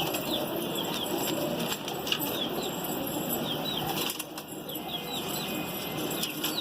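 Pigeon wings flapping and fluttering. Small birds chirp in the background.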